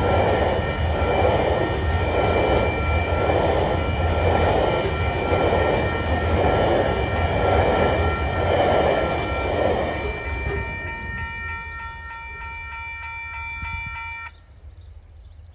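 Coal train hopper wagons rolling past, a rumble of wheels that pulses about once a second, over a level-crossing bell ringing steadily. The wagon noise fades after about ten seconds as the end of the train passes, and the bell stops suddenly near the end.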